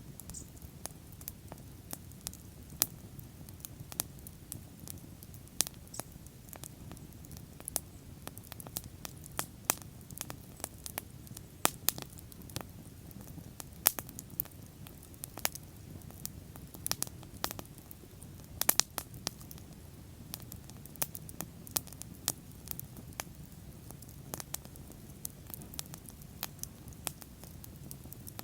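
Wood fire burning, with frequent irregular sharp crackles and pops over a low steady rumble of the flames.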